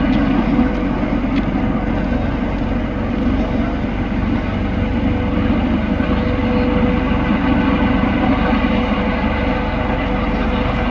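Helicopter's turbine engine and rotors running steadily, with a constant tone over a dense low rumble.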